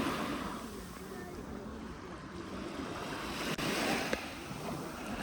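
Sea waves washing onto a beach, a steady wash that swells and fades, building to a louder surge about four seconds in.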